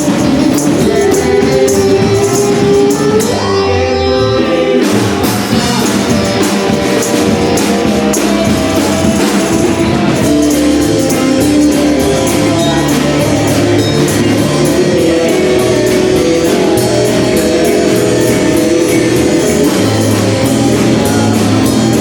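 A live band playing, with drum kit and cymbals driving a steady beat under pitched instruments and a singing voice.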